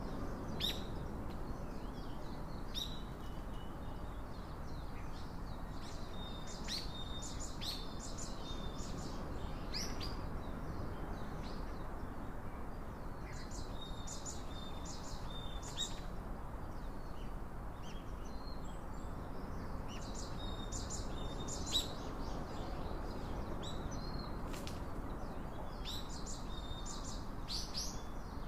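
Small birds chirping: short, high calls coming in clusters every few seconds over a steady background hiss.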